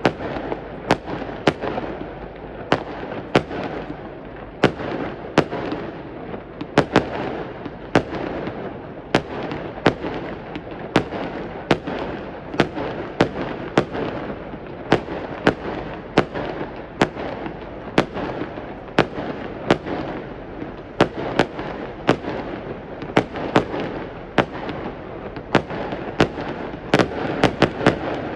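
Fireworks going off in a continuous barrage, with sharp bangs about one or two a second over a steady crackle and rumble. Several bangs come in quick succession near the end.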